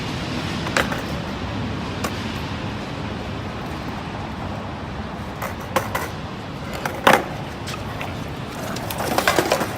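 Steady vehicle noise with a few scattered clicks and knocks, the sharpest about seven seconds in and a cluster near the end.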